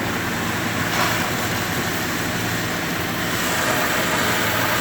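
An engine running steadily at low speed, with a steady outdoor noise around it; a higher whine joins about three seconds in.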